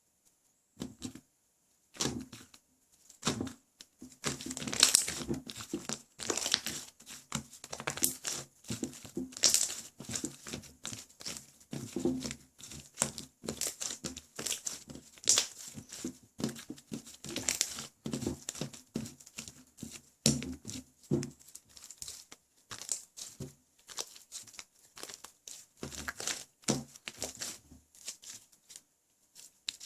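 White clay-mixed slime being squeezed, pressed and stretched by hand, giving a dense string of sticky clicks, pops and crackles with short pauses between handfuls.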